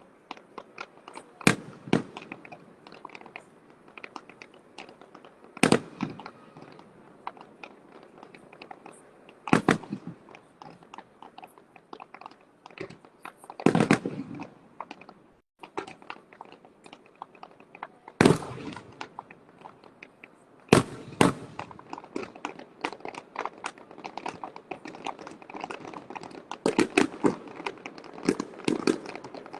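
Fireworks going off: a steady spatter of crackling with a louder bang every few seconds, the crackle growing dense near the end.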